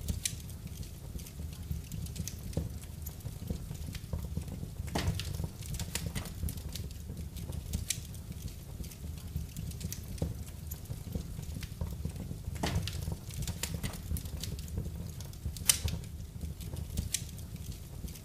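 Wood fire burning in a fireplace: a steady low rumble of flames with scattered crackles and sharp pops every few seconds.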